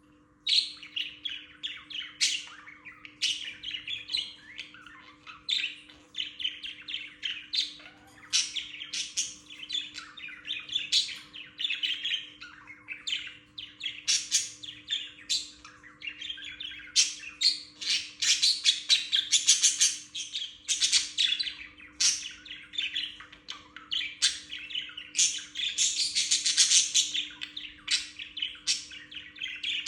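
Pet budgerigars chattering: a dense, continuous stream of warbles and sharp chirps from more than one bird, starting abruptly about half a second in. This is their morning chirping.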